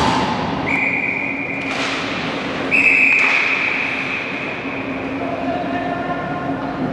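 Two sharp blasts of a referee's whistle in a hockey arena, the second one louder, ringing off the rink over a steady hum and crowd noise.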